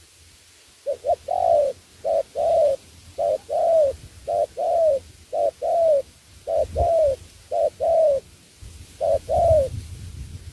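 Spotted dove cooing: eight repeated phrases, each two short notes followed by a longer falling coo, about one phrase a second.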